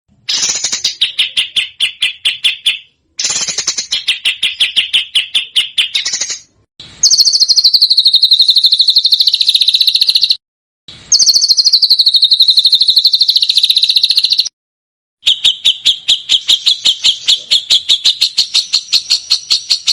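Recorded songbird song in rapid-fire runs of repeated high notes, a 'tembakan' phrase played over and over. Five phrases of about three seconds each, with short silences between them; some phrases start higher and slide down before settling on a steady pitch.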